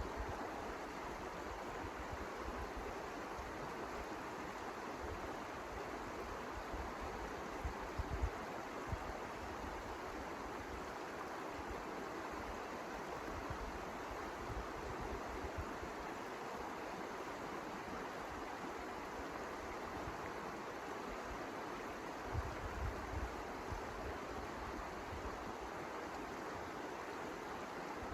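Steady rushing of blizzard wind, with a few low buffets of wind on the microphone about eight seconds in and again near the end.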